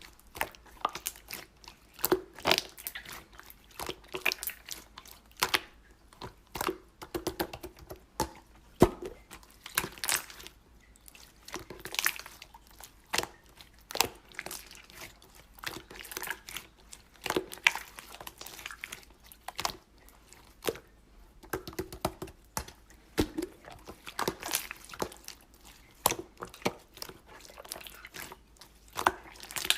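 Slime being squeezed and pressed by hand, giving irregular crackling clicks and wet pops several times a second.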